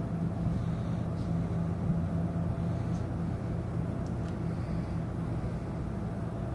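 Steady low hum and drone of the Mein Schiff 4 cruise ship's machinery during docking, with a few faint ticks on top.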